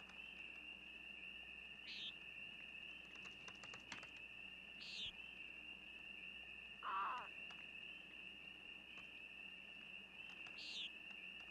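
Faint night ambience of insects trilling in one steady, unbroken high tone. Three short rising chirps and one brief falling squeak sound over it, about two, five, seven and eleven seconds in.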